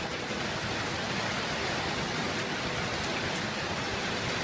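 Hail and heavy rain pouring down in a steady, dense hiss, with faint ticks of stones striking.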